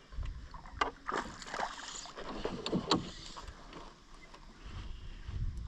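Water splashing and sloshing against a canoe in short irregular bursts, with a few sharp clicks, over a low rumble of wind on the microphone.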